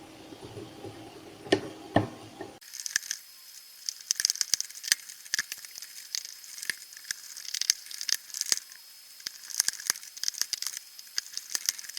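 Two sharp clicks, then from about two and a half seconds in a dense run of scratchy clicking and scraping: small screws being turned by a screwdriver into a plastic waterproof junction box lid.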